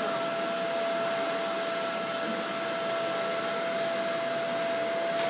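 Vacuum cleaner (hoover) running steadily: a constant motor whine over an even rush of air.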